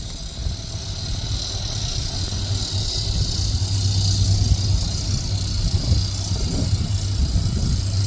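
Diesel power of a Loram SBC-20 shoulder ballast cleaner running with a steady low drone while it works the track, slowly growing louder.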